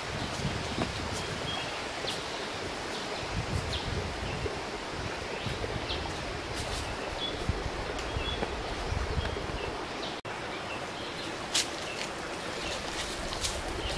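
Outdoor ambience: a steady hiss with wind buffeting the microphone, a few short faint bird chirps, and scattered rustles and sharp clicks.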